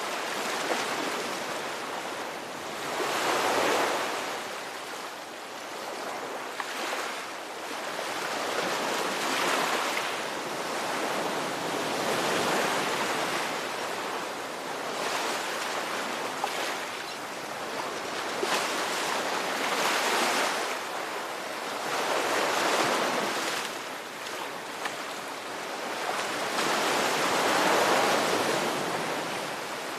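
Ocean surf: waves rolling in and washing out, each one swelling and fading every few seconds.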